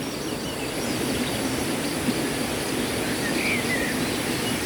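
Steady rush of a river flowing, with a few faint bird chirps.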